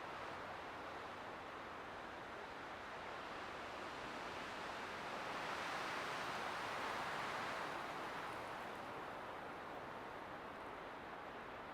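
Light wind blowing as a steady hiss, a gust swelling about halfway through and dying away again.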